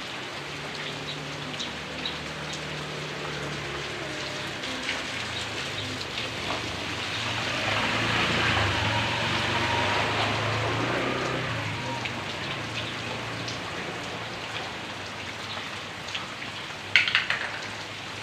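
Heavy rain falling steadily, swelling louder for a few seconds in the middle before easing back, with a sharp click near the end.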